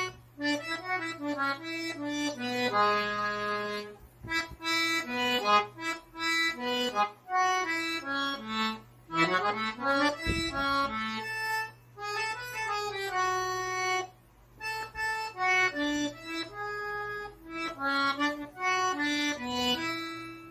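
Accordion playing a forró melody at a slow, lesson pace, single notes one after another with short breaks about 4 and 14 seconds in.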